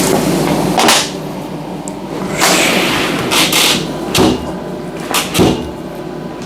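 A handful of knocks and clanks during door-frame welding work on a bus, two of them close together near the end, over a steady low hum.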